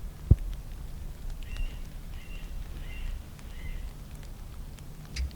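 A bird calling in a series of four or five short, high chirps over a low steady wind rumble, with a single sharp low thump just after the start.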